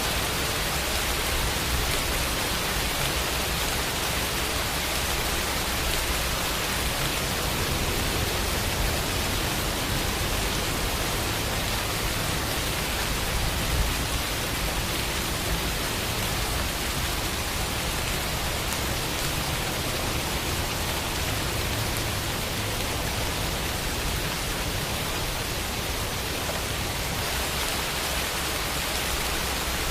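Steady rain falling, an even hiss without a break, with a single slightly louder drop or tap about halfway through.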